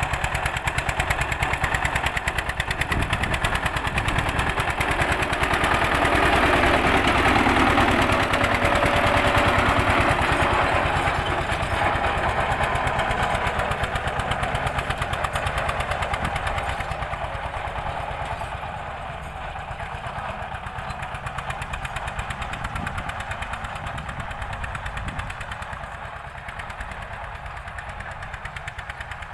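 Old Eicher tractor's diesel engine running with a steady, rapid exhaust beat while pulling a cultivator. It is loudest several seconds in and gets steadily quieter after about seventeen seconds.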